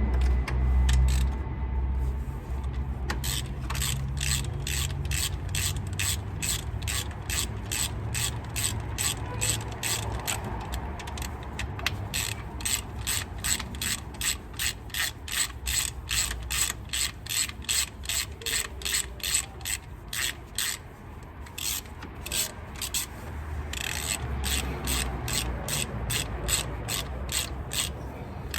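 Hand ratchet wrench clicking in steady back-and-forth strokes, about two clicks a second, with a short pause before the end, as bolts are loosened on a V8 engine.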